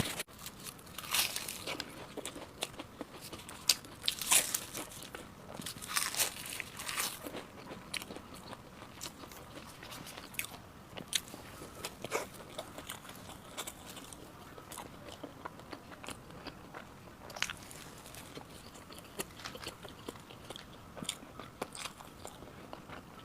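Close-miked biting and chewing of crisp, flaky egg-tart pastry: repeated crunchy bites, loudest in the first several seconds, then lighter crackling chews.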